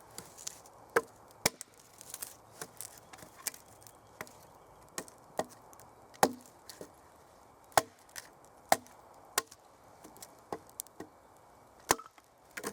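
Axe chopping dry sticks for firewood: a series of sharp, irregularly spaced strokes of wood being split, some hard and loud, others lighter.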